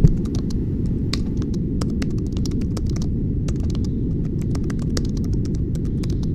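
Typing on a computer keyboard: a run of irregular keystroke clicks, opened by one sharper click, over a steady low rumble.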